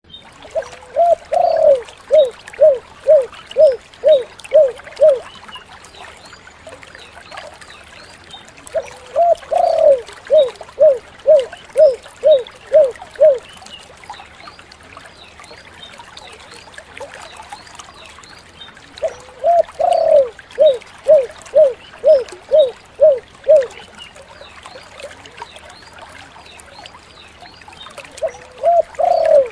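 Spotted dove (tekukur) singing its 'kuk 7' song: each phrase opens with a longer rising coo followed by a quick, even run of short coos. Three full phrases come about ten seconds apart, and a fourth begins near the end.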